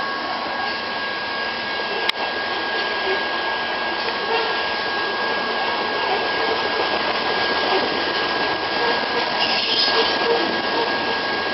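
BNSF coal train passing at speed, heard from inside a car: a steady rushing noise with a faint steady high whine, and one sharp click about two seconds in.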